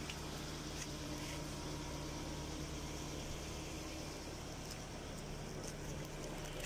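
A car engine idling steadily, a low even hum with faint hiss.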